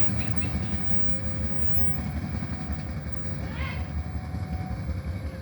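Low, steady rumble of a passenger train moving along the track, with a short faint voice-like call about three and a half seconds in.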